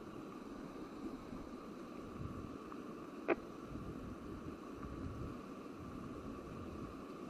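Steady rushing of a waterfall, an even wash of noise, with a single sharp click a little under halfway through.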